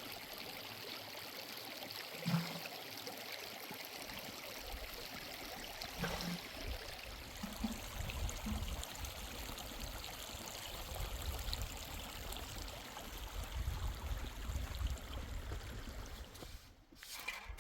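Mountain stream or spring water flowing steadily, with a few brief faint sounds over it; the water cuts off for a moment near the end.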